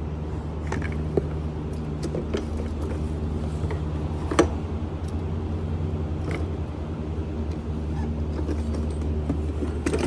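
An engine running steadily during a start-up test, with light clicks and taps over it, the sharpest about four seconds in.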